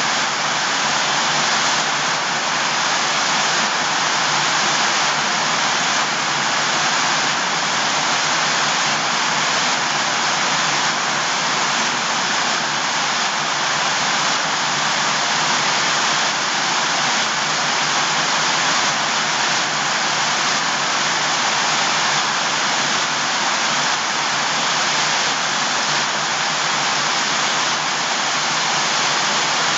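Water rushing steadily, an even hiss with no breaks or changes.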